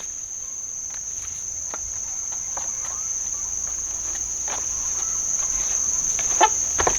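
Insects chirring steadily at one high pitch, with two short sharp sounds near the end.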